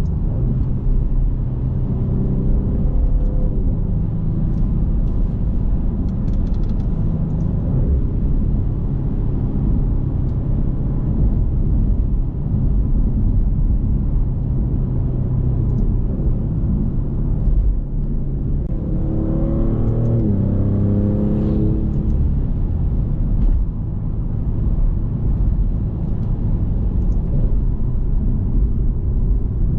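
Twin-turbo 3.0-litre Nettuno V6 of a 2024 Maserati GranTurismo Modena running on the move, a steady low rumble with road noise. About two thirds of the way through, the engine note climbs in a short burst of acceleration, rising in steps as it pulls through the gears, then settles back to a steady cruise.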